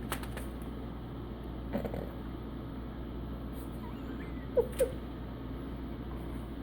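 Two short, high kitten mews in quick succession about four and a half seconds in, over a steady low hum, with a few faint clicks.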